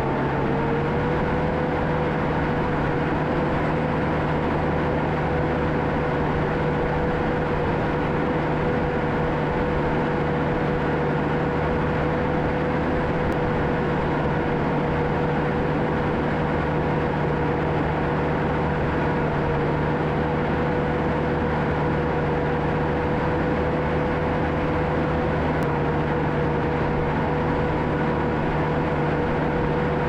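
Diesel engine of a John Deere 650K crawler dozer running steadily under work, with a steady whine over the engine's hum; the pitch steps up slightly just after the start, then holds.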